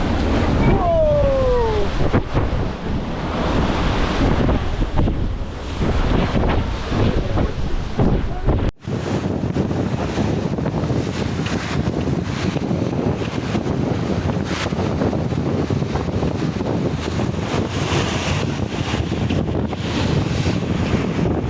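Wind buffeting the microphone over the rush of heavy lake waves around a ferry. About a second in there is a short falling squeal, and near nine seconds the sound breaks off for an instant and resumes.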